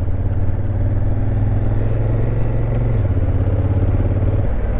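Honda Africa Twin's parallel-twin engine running steadily at low revs, its note shifting slightly about three seconds in.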